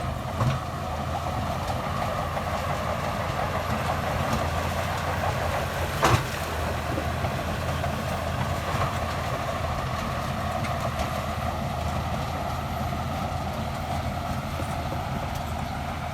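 Shantui DH17C2 bulldozer's diesel engine running steadily with its tracks clattering, and two sharp metallic clanks, one about half a second in and a louder one about six seconds in.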